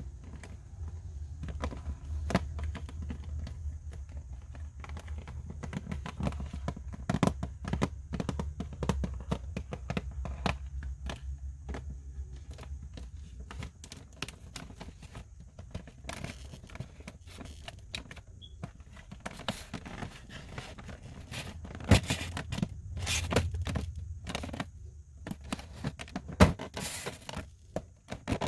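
Toy packaging being handled and opened: irregular crinkling, scraping and rustling, with sharp clicks and knocks, a few louder ones near the end.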